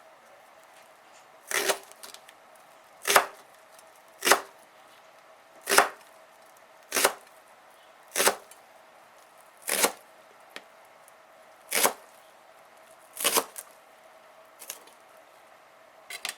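A knife chopping on a cutting board in about ten slow, separate strokes, one every second or so.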